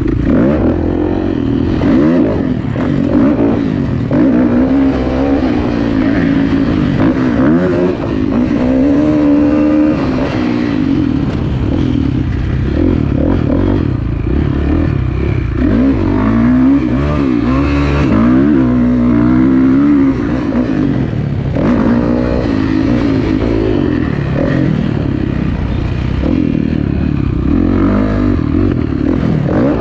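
Kawasaki KX450F dirt bike's single-cylinder four-stroke engine running hard on a motocross track, revving up and easing off again and again through the gears.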